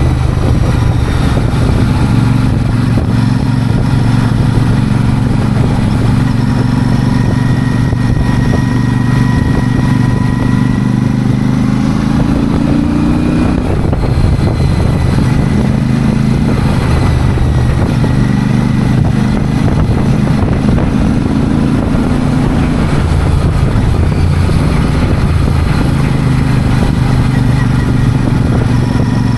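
Royal Enfield Super Meteor 650's 648 cc parallel-twin engine running steadily. Its pitch rises slowly and falls back about 13 seconds in, and the engine speed changes a few more times after that.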